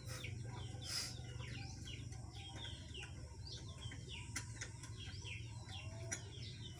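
Birds chirping in quick, short calls, over a steady low hum, with a couple of faint clicks near the start and about a second in.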